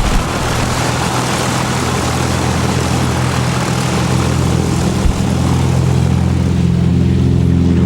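Light propeller aircraft's engine running close by, a steady drone under a loud rushing noise. The rushing thins out near the end, leaving a clearer engine hum; a brief thump about five seconds in.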